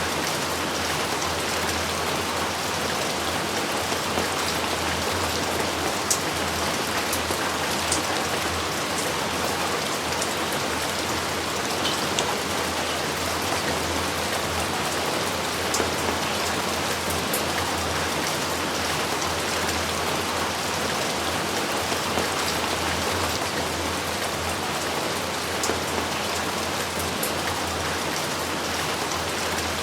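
Steady heavy rain falling on surfaces, an even hiss with scattered sharper drop ticks.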